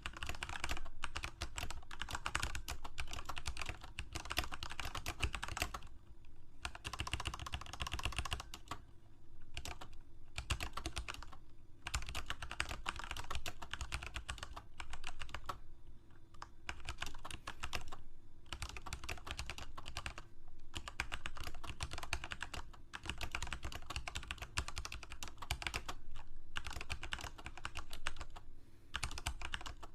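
Typing on a computer keyboard: fast, continuous runs of key clicks broken by short pauses every few seconds.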